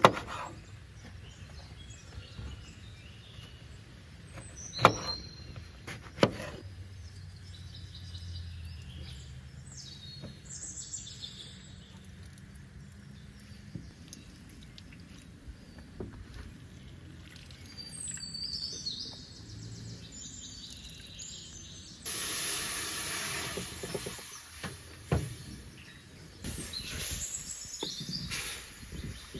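Birds chirping in the background, with a few sharp knocks. Near the end come two louder stretches of rushing, hiss-like noise lasting a couple of seconds each.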